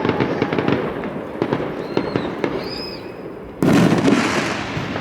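Aerial fireworks going off: a run of crackling pops, then a loud shell burst about three and a half seconds in that trails away.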